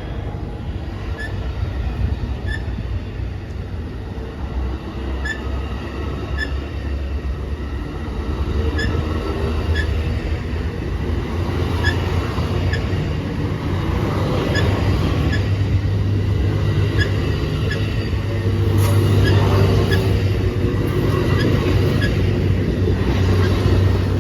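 Amtrak Coast Starlight passenger train rolling past at low speed as it pulls out of the station. A steady low rumble runs under regularly spaced clicks of the wheels over rail joints, with faint wheel squeal, and the sound grows louder toward the end.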